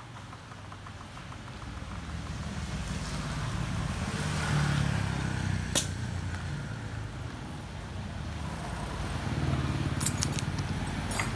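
A motor vehicle's engine rumbles, swelling as it draws near, with a sharp click about six seconds in and a few light clicks near the end.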